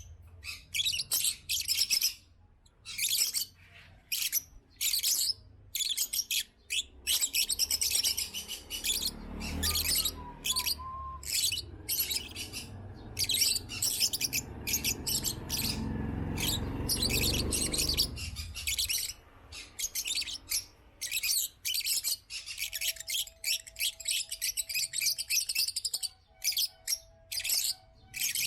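African lovebirds chirping: a dense, continuous stream of short, high-pitched chirps. A low rumble runs under them for about ten seconds in the middle.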